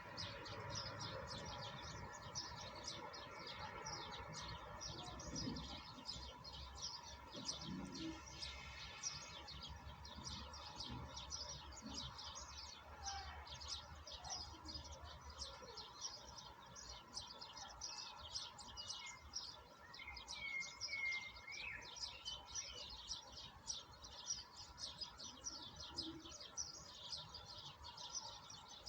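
A chorus of many small birds chirping rapidly and continuously, over a faint steady background hiss.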